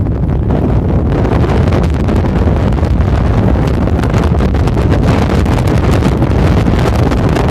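Strong blizzard wind buffeting the microphone, a loud, steady rumbling roar.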